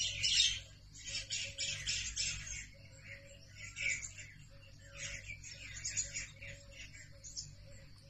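A chorus of small songbirds chirping and twittering, with many quick, high notes overlapping throughout and a lower short note repeated evenly underneath.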